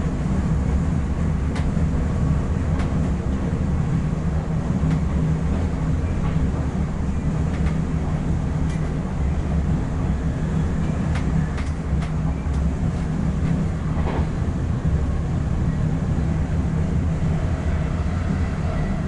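Steady low rumble of an NS ICM (Koploper) electric multiple unit heard from inside its driver's cab as it runs along the line, with scattered sharp clicks from the wheels on the track.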